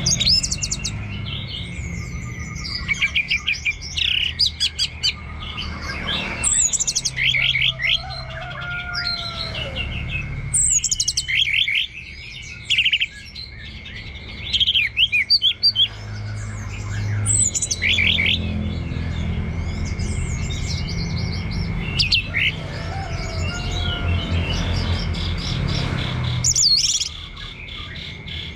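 Orange-headed thrush (anis merah) singing a long, varied run of short chirps, trills and sweeping notes in quick clusters. A steady thin high whine and a low hum run underneath.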